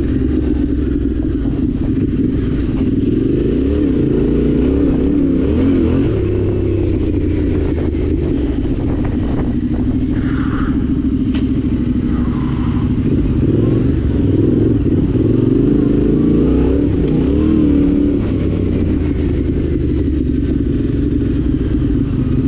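Yamaha Ténéré 700's parallel-twin engine running under way, its pitch rising and falling as the throttle opens and closes.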